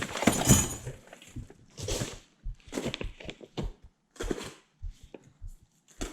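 Boxes and packaging being handled and rummaged through: a string of irregular rustles and knocks, loudest in the first second.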